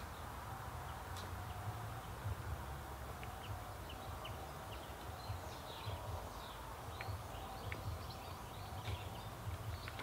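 Short, high bird chirps and calls scattered through, over a steady low rumble.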